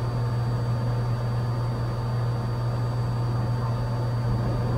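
Cessna 182's engine and propeller droning steadily in level cruise, heard inside the cabin: a strong, even low hum under a wash of wind and airframe noise.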